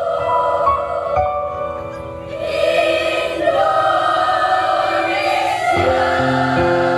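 A school choir singing long held chords, moving to a new chord about six seconds in.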